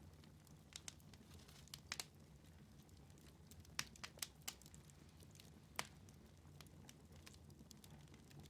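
Wood fire in a fireplace crackling softly, with scattered sharp pops over a faint low hum.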